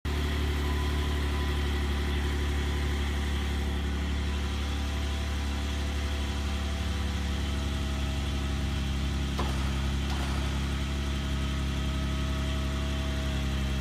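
Jeep Wrangler engine idling steadily, with a short click about nine seconds in.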